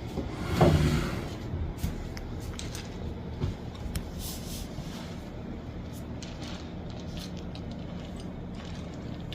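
Spoon and cereal bowl being handled: scattered light clicks and knocks over a steady low hum, with a louder brief clatter about half a second in.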